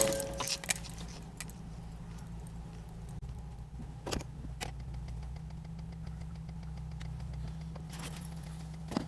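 Car engine idling as a steady low hum, with a few faint clicks. A louder noise from just before dies away in the first second.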